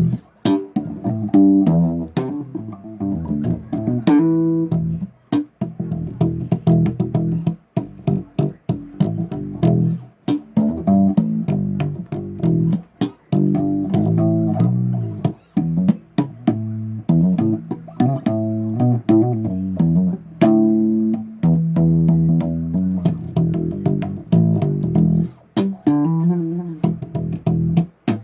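Bass guitar played solo, a run of quickly plucked notes and riffs with frequent short breaks between phrases.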